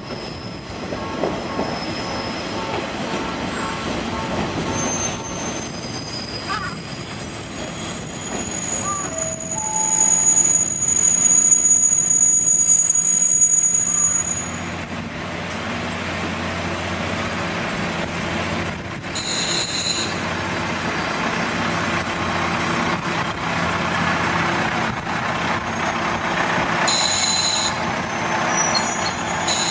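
Train running on the rails, with thin high wheel squeals over the running noise; it grows louder for a few seconds about a third of the way in.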